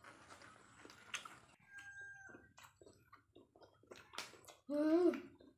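People eating with their hands: wet chewing, lip-smacking and slurping clicks. Near the end comes a short, loud vocal exclamation whose pitch rises and falls.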